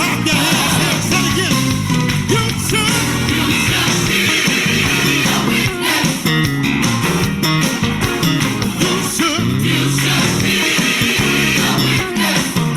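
Live worship music: a band with guitar accompanying singing.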